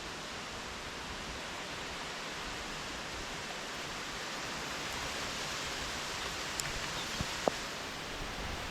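Steady rushing of strong storm wind through trees, with a few short sharp ticks late on.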